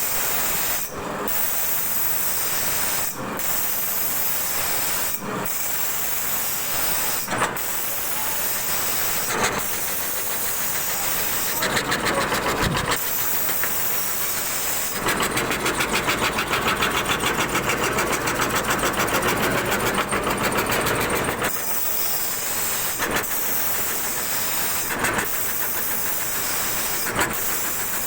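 CNC wood router cutting wood: a steady hissing cutting noise broken by brief dips about every two seconds. From about fifteen to twenty-one seconds in it grows louder, with a fast, even rattle.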